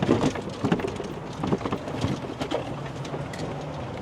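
Wind buffeting the microphone: irregular crackling, rustling gusts that calm down after about two and a half seconds.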